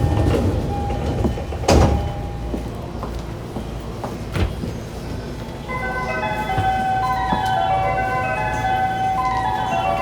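Station platform departure melody playing from about six seconds in, a short tune of clear chime-like notes signalling that the train's doors are about to close. Before it, two sharp knocks over the train's background hum.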